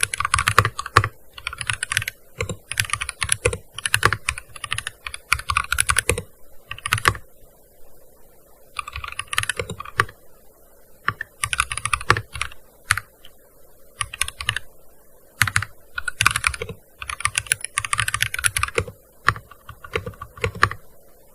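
Fast typing on a gaming keyboard: quick runs of keystrokes in bursts, broken by short pauses of a second or two.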